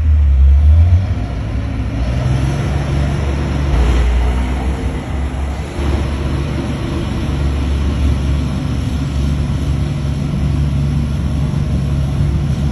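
Heavy truck engine running with a steady low rumble, its note shifting a few times, about a second in and again around four and six seconds in.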